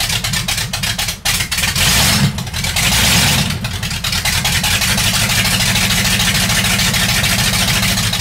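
Freshly built Factory Five Cobra replica's V8 engine running loud on straight, open headers during its first start, with its ignition timing a little off. It is revved briefly twice, about two and three seconds in, then settles back to a steady idle.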